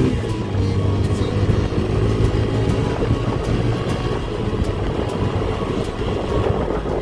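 Motorcycle running on the road while riding, a steady engine rumble mixed with wind and road noise.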